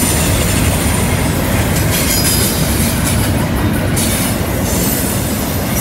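Double-stack intermodal container well cars rolling past on a curve: a steady heavy rumble of steel wheels on rail. High-pitched wheel flange squeal swells and fades over the top, loudest about two seconds in and again near the end.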